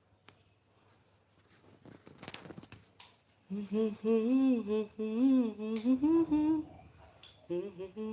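A person humming a wavering tune in a small room. The humming starts about three and a half seconds in, breaks off briefly near the end and starts again, after a faint rustle.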